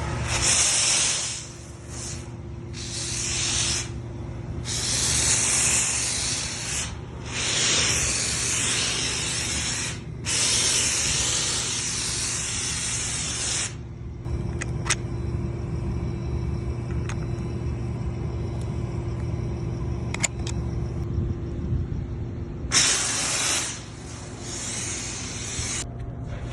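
Foamer spray tip hissing as it sprays foam in a series of bursts, each a second to a few seconds long. There is a longer quieter spell in the middle, broken by a couple of sharp clicks, and a steady low hum runs underneath.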